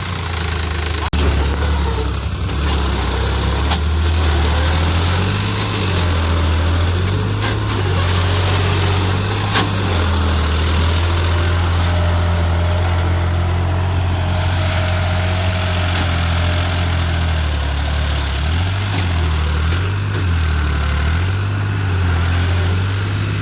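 Tractor diesel engine running under load, its revs rising and falling repeatedly while it works to free a trolley stuck in a wet field.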